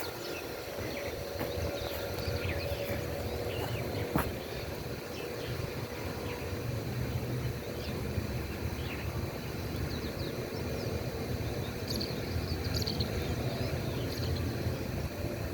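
Outdoor ambience: a steady low rumble with scattered faint bird chirps, and a single sharp click about four seconds in.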